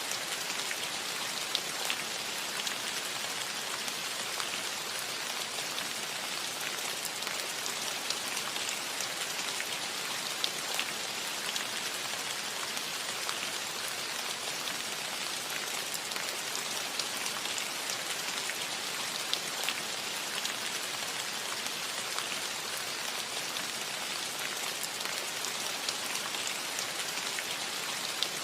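Steady rain falling on a roof: an even hiss of rainfall with many scattered individual drops ticking through it.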